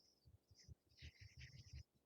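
Faint chirping of a small bird, in quick short notes, over soft irregular low rumbles, in near silence.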